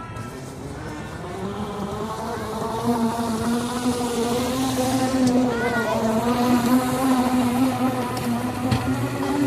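A motor's steady droning hum that grows louder, with faint voices of people around.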